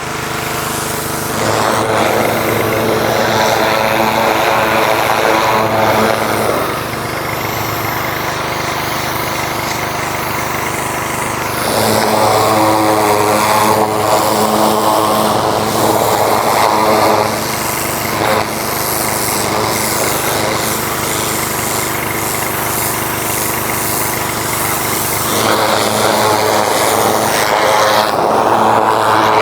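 Engine running steadily, getting louder three times for several seconds at a stretch, as when it is revved or put under load.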